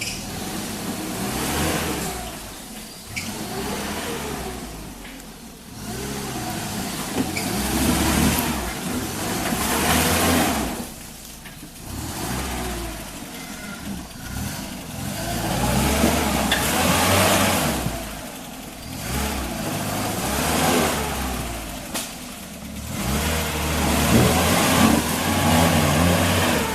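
Off-road 4x4 engine revving up and easing off again and again, its pitch and loudness rising and falling every few seconds.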